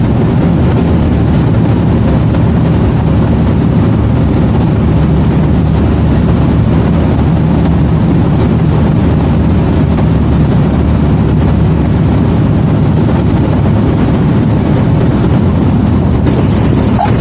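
A light single-engine aircraft's piston engine and propeller running steadily, a loud, constant drone.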